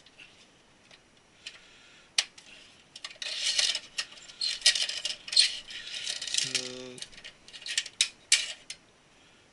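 Small hard parts clicking and rattling as computer hardware is handled, with a single click about two seconds in and a run of busy rattling through the middle.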